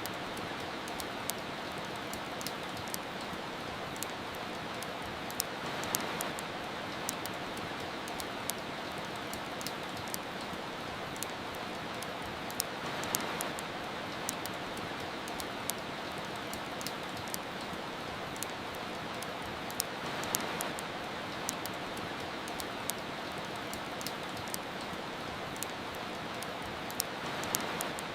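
Steady rain hiss with the sharp crackles and pops of a wood fire scattered through it. The rain swells slightly about every seven seconds.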